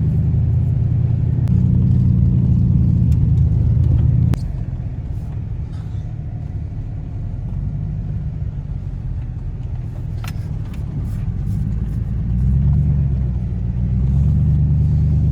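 2007 Chevy Silverado pickup running as it drives along at low speed, a steady low rumble. It eases off sharply about four seconds in and picks up again near the end.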